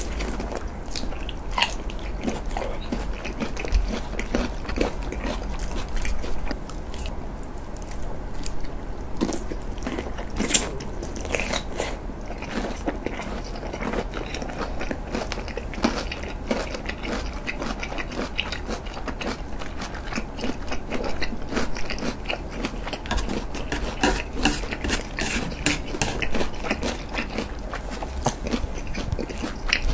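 Close-miked biting and chewing of a large mouthful of pork-belly-wrapped daikon, with many small mouth clicks throughout.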